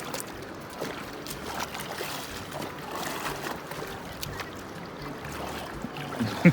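Creek water running and lapping, with a steady rushing haze and small scattered splashes. A short vocal exclamation comes at the very end.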